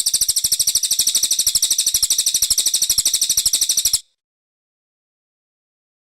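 Brown cililin songbird giving a rapid, high-pitched chattering trill of about a dozen notes a second, which cuts off abruptly about four seconds in.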